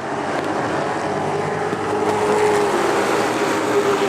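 Racing truck engines running hard on the track, a dense engine drone, with one engine's pitch climbing a little and getting louder about halfway through.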